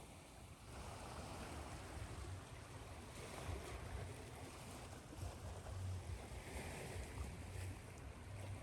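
Ocean surf washing in and drawing back, layered over steady white noise. A wave swells in about a second in and again near the end.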